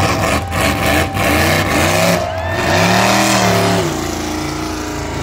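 Monster truck engine revving hard, its pitch rising and falling again and again, with a few sharp knocks in the first second, then settling to a steadier run near the end.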